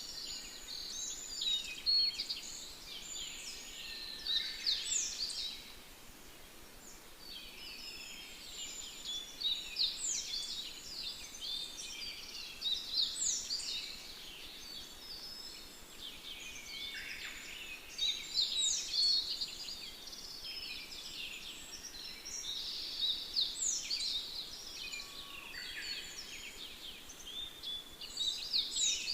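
Songbirds singing: several birds overlapping in fast, high chirps and trills that come in phrases a few seconds long with short pauses between, over a faint steady hiss.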